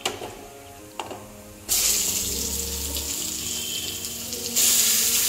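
Raw chicken pieces sizzling as they are dropped by hand into a hot pan of frying ginger paste and turmeric. The sizzle starts suddenly about two seconds in and grows louder near the end as more pieces go in.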